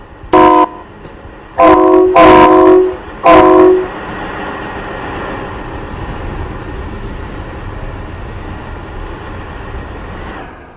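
Train horn sounding four blasts of several notes at once, one short and three longer, within the first four seconds, followed by a steady rumble of the train running that fades away near the end.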